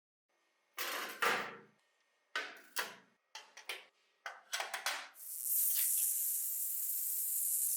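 A series of sharp clicks and knocks from small parts being handled, then, about five seconds in, a steady high spray hiss starts and holds.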